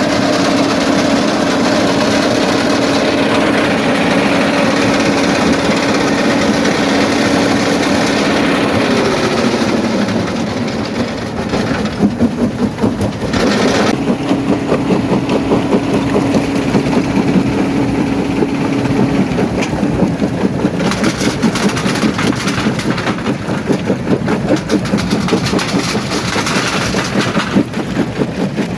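Primary jaw crusher running with a steady mechanical hum. From about ten seconds in it is joined by a dense, irregular run of knocks and crunching as rock is broken between the jaws.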